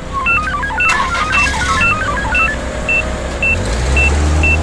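Cartoon construction-machinery sound effects: a low engine rumble that grows louder near the end, with a short high beep repeating about twice a second. A quick run of plinking notes steps up and down over the first two and a half seconds.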